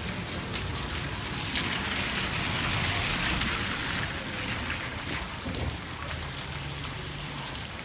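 Heavy rain falling steadily, a dense hiss that swells louder for a few seconds near the middle, over a low rumble.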